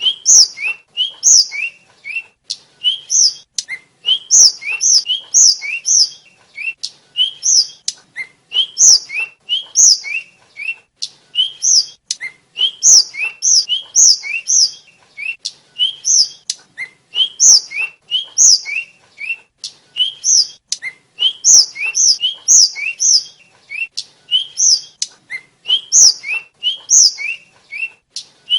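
A tledekan (sikatan, a small flycatcher) singing a steady run of short, high whistled notes, each phrase a quick upward slur followed by brighter, higher notes, repeated over and over with short gaps, mixed with brief sharp clicks.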